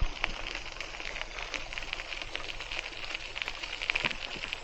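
Riding noise from a Hiboy C1 e-bike on a park path: a steady patter of small crackles and ticks, with a sharp thump right at the start.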